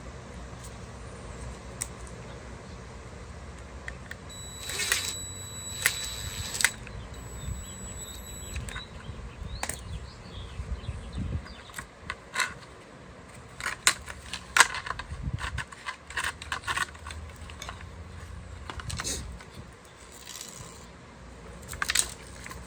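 Scattered clicks, knocks and light rattles of small metal and plastic parts and tools being handled while a door lock actuator and its rods are refitted inside a car door. A steady high-pitched tone sounds from about four to seven seconds in.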